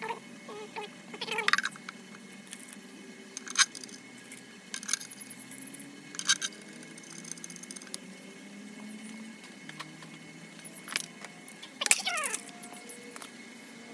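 Scattered sharp clinks and knocks, five or six in all, the loudest about a third of the way in and near the end, over a faint steady low hum.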